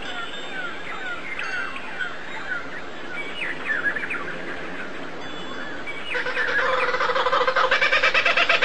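Birds chirping: many short, quick whistled notes gliding up and down. About six seconds in, a louder call of fast repeated pulses begins and carries on.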